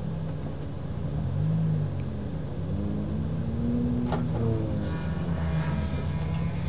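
A car engine idling, heard from inside the cabin, with a couple of brief rises in revs in the middle.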